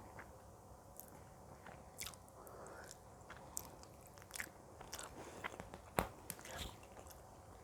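Close-miked chewing and biting of food, soft, with scattered small mouth clicks and one sharper click about six seconds in.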